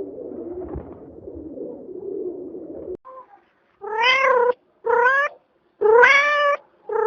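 A cat meowing over and over: three rising meows, with a fourth starting near the end. Before them comes about three seconds of an indistinct low sound that stops abruptly.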